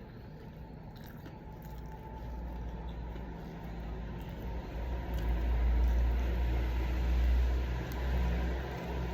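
Biting and chewing sounds of a person eating, over a low rumble that swells about five seconds in and eases off near the end.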